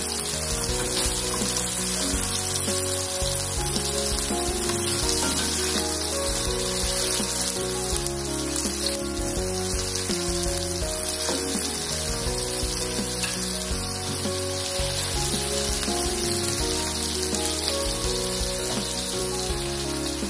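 Chicken tikka pieces sizzling steadily as they shallow-fry in hot oil in a pan, with background music underneath.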